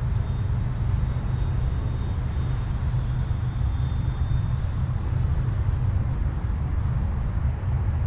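An 80 mm electric ducted fan RC model jet flying at a distance, its fan whine a faint steady high tone, with heavy wind rumble on the microphone.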